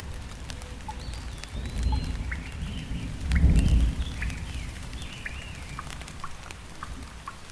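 Steady rain with scattered drips, a low rumble that swells twice, the second time louder, about two and three and a half seconds in, and faint high wavering calls through the first part.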